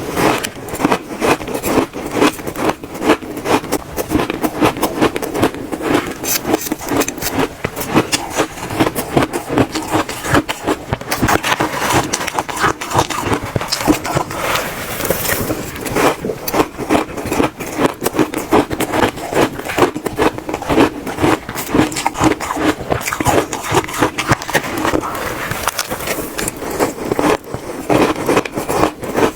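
Close-miked crunching of shaved ice being bitten and chewed: a dense, continuous run of crisp cracks and crunches, many to the second.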